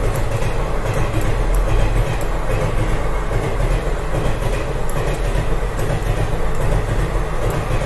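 Steady rumble of a running train, with scattered light clicks over it.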